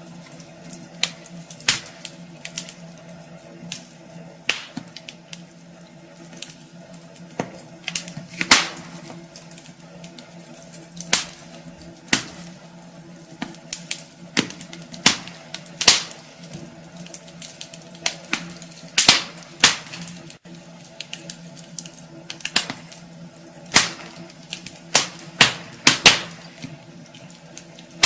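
Wood fire crackling in a fireplace: irregular sharp pops and snaps, several loud, over a faint steady hum.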